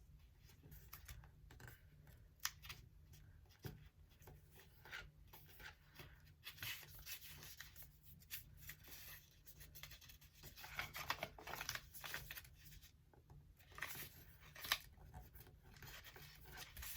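Sheet of paper rustling and scraping faintly as it is folded and its creases pressed down, in short irregular strokes.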